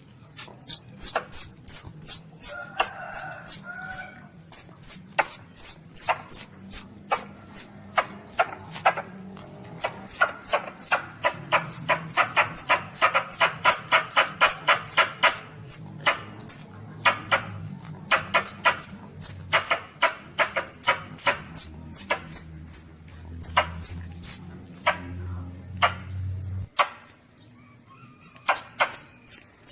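Baby Asian palm civet (luwak) giving rapid high-pitched squeaks, each a short downward sweep, several a second in long series, over a low hum that stops near the end.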